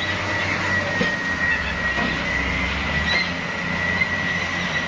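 Heavy diesel truck engine running with a steady low rumble and a constant high whine over it.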